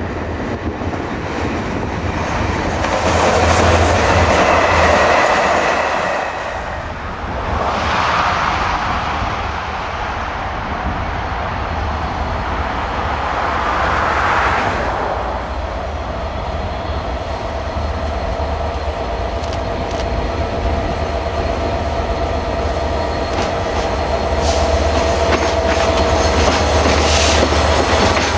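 Diesel-hauled passenger train passing close by: the locomotive's engine runs with a steady low rumble as the train goes by, and the wheels click over the rail joints as the coaches roll past. A thin steady whine comes in during the later part.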